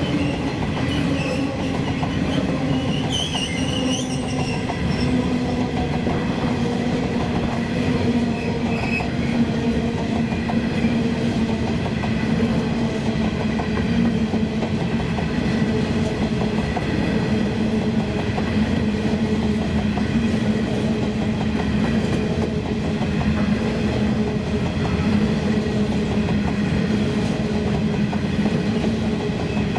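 Coal train's hopper wagons rolling past at steady speed: a continuous rumble and clatter of steel wheels on the rails. A brief high squeal comes about three seconds in.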